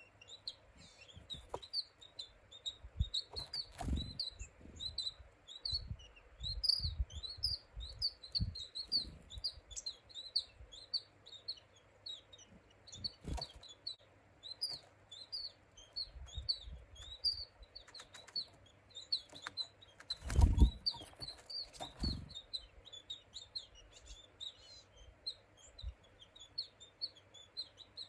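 Small woodland birds chirping rapidly in short high notes, several a second, with soft low thumps of wingbeats at intervals, the loudest about twenty seconds in.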